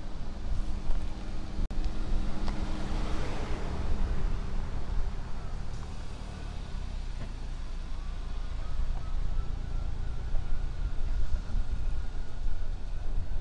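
Wind rumbling on the microphone of a moving electric unicycle ride, with a rushing sound that swells and fades about three seconds in.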